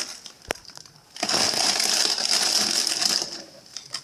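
Plastic food packaging crinkling and rustling as frozen items are handled, with a sharp click about half a second in and a long burst of rustling through the middle.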